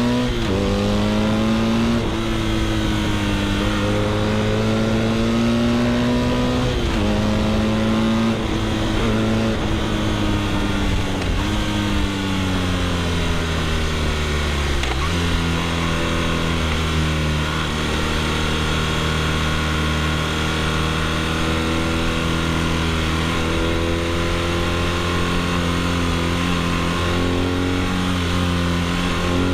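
BMW R nineT's boxer twin engine through an Akrapovic exhaust under way: the engine note climbs and falls back several times through gear changes in the first half, drops sharply about halfway through, holds a fairly steady note for a long stretch, then starts to climb again near the end.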